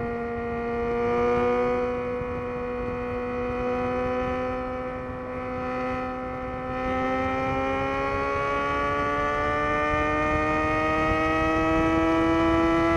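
2011 Yamaha XJ6's inline-four engine through a Black Widow full exhaust system, running at steady revs and then climbing slowly in pitch and loudness from about halfway through as the bike accelerates.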